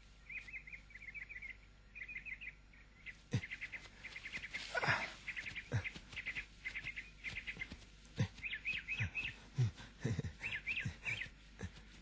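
Small birds chirping in short runs of rapid, high chirps, repeated every second or so, with a few scattered soft knocks.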